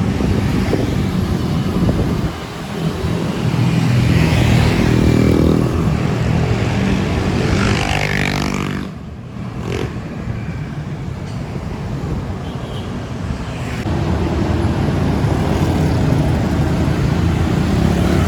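City road traffic: engines of nearby motor vehicles running close by. One engine falls in pitch and fades about nine seconds in, and another comes up again a few seconds later.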